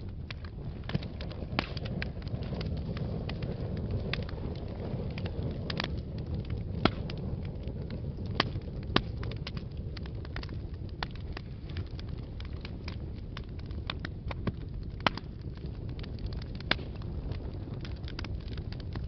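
Wood fire burning in a fireplace: a steady low rumble of flames with irregular crackles and a handful of sharper pops.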